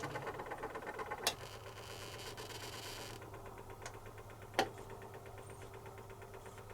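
Zanussi FC1000 compact washing machine running quietly: a steady low motor hum, easing off over the first few seconds, with a faint fast rhythmic ticking. Two sharp clicks come about a second in and about four and a half seconds in.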